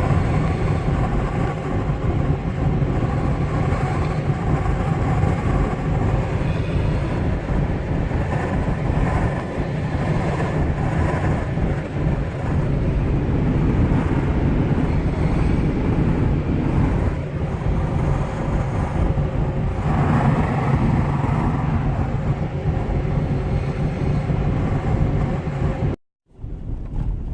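Steady road and engine noise of a Chevrolet Suburban being driven, a continuous rumble that stays level throughout and cuts off abruptly near the end.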